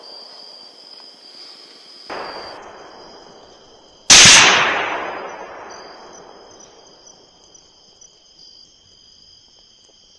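A gunshot about four seconds in, loud and dying away slowly over a couple of seconds: the shot that drops a wild hog. A smaller, sharp bang comes about two seconds earlier. Steady insect trilling runs underneath.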